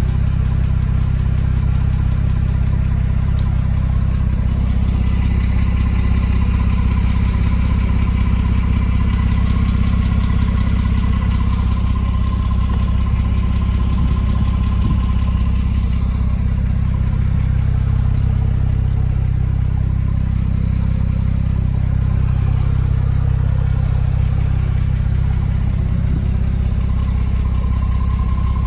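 Porsche 911 (991.2) flat-six engine idling steadily, with a ticking that the owner says the engine makes when it is not completely warmed up.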